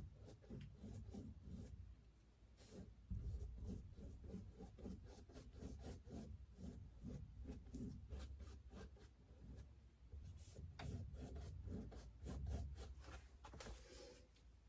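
Faint rubbing and scraping of paint being worked onto a stretched canvas, in quick repeated short strokes, several a second.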